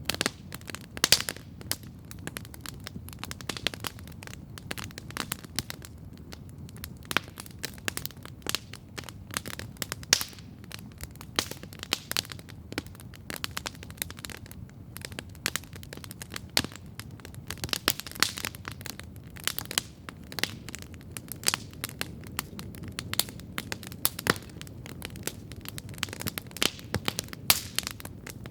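Wood campfire crackling steadily: irregular sharp pops and snaps, some louder than others, over a low steady rumble of the burning fire.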